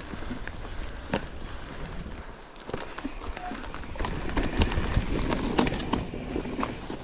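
Full-suspension mountain bike being ridden fast over rough trail: tyres rumbling on dirt, with irregular clacks and rattles from the bike, partly an internal gear cable rattling where a grommet has worked loose. It gets louder and busier about four seconds in.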